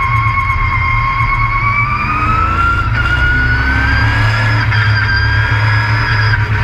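Race truck heard on board: a loud, high whine over a low engine rumble, the whine climbing slowly in pitch a couple of seconds in and then holding steady.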